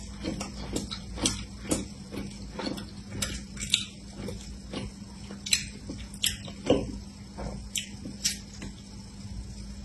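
Close-miked chewing, with irregular wet mouth clicks and smacks about one or two a second, over a steady low hum.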